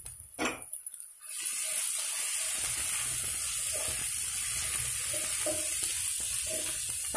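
Chopped onions with ginger-garlic paste and turmeric sizzling in hot oil in a non-stick pan while being stirred with a spoon. The sizzle jumps up sharply about a second in and then holds steady, with soft scrapes and taps of the spoon in the pan.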